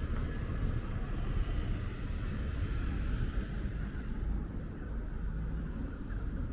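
Steady low rumble of outdoor city street noise, easing a little after about four seconds.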